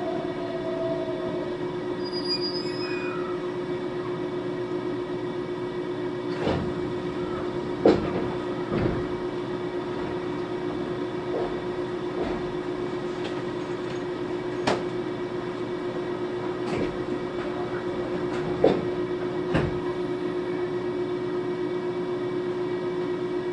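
Interior of a JR-type 521-series electric multiple unit standing at a platform: a steady electrical hum from its onboard equipment, with occasional sharp knocks and bumps inside the car.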